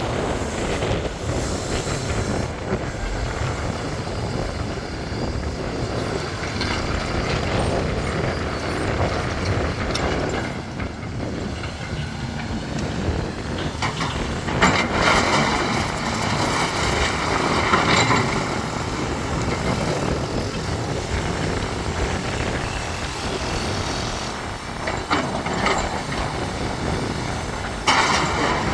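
Heavy diesel earthmoving machinery running steadily, with a few louder knocks and scrapes over the middle and near the end.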